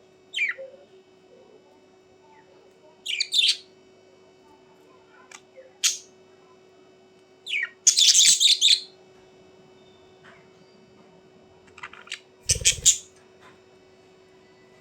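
Birds calling in short bursts of chirps and squawks, about seven times, the loudest a chattering run of calls lasting about a second near the middle. A faint steady hum runs underneath, and a low thump comes with one of the last calls.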